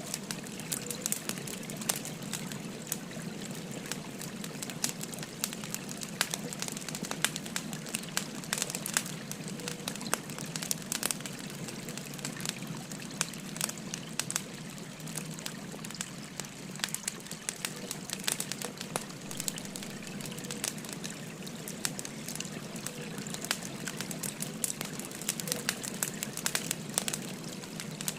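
Wood fire crackling, with frequent sharp pops and snaps, over the steady rush of a gently flowing stream.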